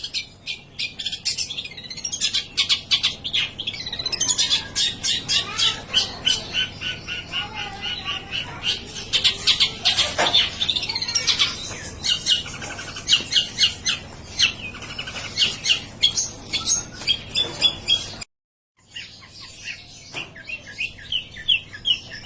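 Long-tailed shrike singing hard: fast runs of harsh, high chattering notes one after another, breaking off for a moment about three-quarters of the way through.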